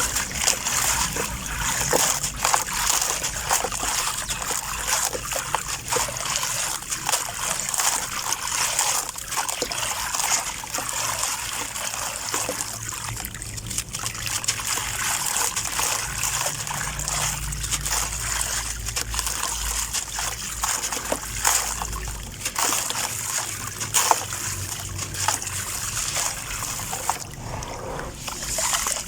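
Gritty sand-cement shapes crumbling in water: continuous splashing and sloshing broken by many small crackles as the grains break apart.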